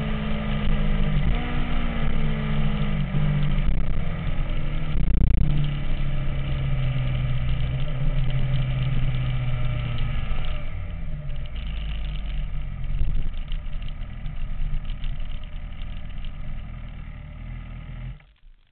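MV Agusta F4's inline-four engine running, revving up and down in the first few seconds, then holding a steadier note that slowly fades and cuts off abruptly near the end.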